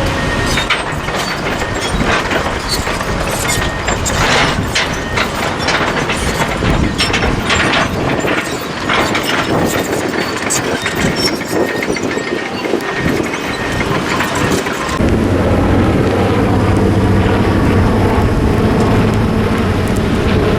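Burning vegetation crackling in a forest fire, with many irregular snaps and pops over a rushing noise. About 15 s in, a steady engine drone takes over and grows louder.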